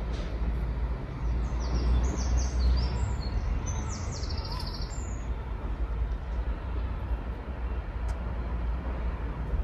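Small birds chirping and singing in a cluster of short high calls for a few seconds, over a steady low rumble.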